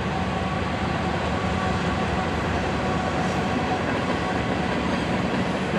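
Freight train running past at a steady level: even train noise with a steady engine drone under it.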